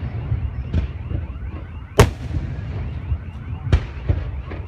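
Aerial fireworks bursting: three sharp bangs, the loudest about two seconds in, over a steady low rumble.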